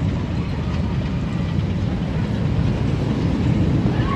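Storm Chaser roller coaster train rumbling steadily along its track.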